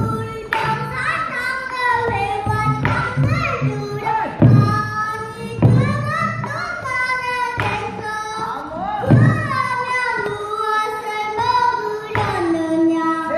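Pansori singing: one voice sung continuously with sliding, bending pitches, punctuated by deep buk barrel-drum strokes every second or two.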